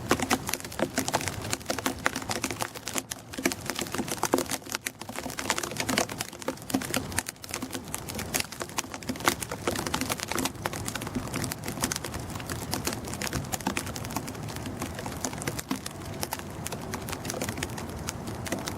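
Blizzard snow ticking and crackling against a hard surface in a dense, irregular patter.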